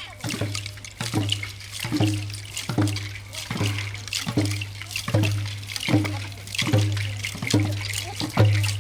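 Hand drums beaten in a steady beat, a little more than one stroke a second, each stroke leaving a low booming tone, over a continuous high rattling hiss.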